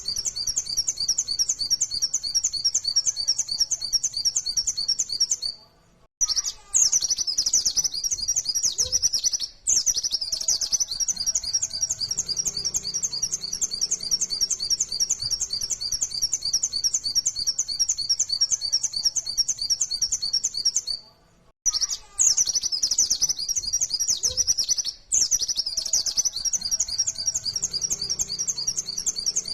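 Pleci (white-eye, Zosterops) singing a fast, unbroken run of high, rapidly repeated chirping notes: the 'nembak' shooting song. The song drops out briefly about six seconds in and again about twenty-one seconds in.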